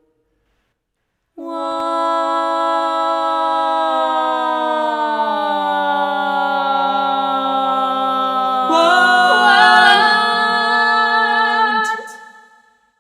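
A cappella voices holding long sustained notes that glide slowly down in pitch, with another voice entering about three quarters of the way through and the sound cutting off sharply near the end. It begins after a second and a half of silence.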